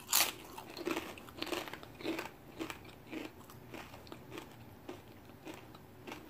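Close-up chewing of a crunchy tortilla chip with guacamole: a loud crunch right at the start, then crunchy chews about two a second that grow fainter.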